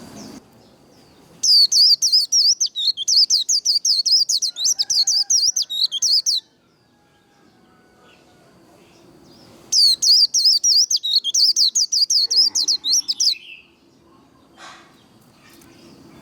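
White-eye (vành khuyên) singing its rapid, high twittering 'líu' song in two long runs of several seconds each, the first starting about a second and a half in and the second near ten seconds in.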